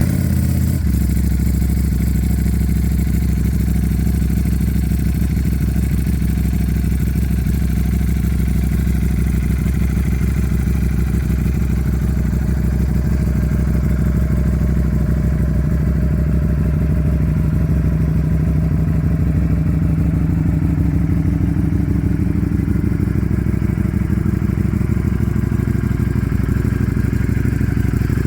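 Ducati Streetfighter V4S's 1103 cc V4 engine idling steadily through a Termignoni exhaust, just after being started.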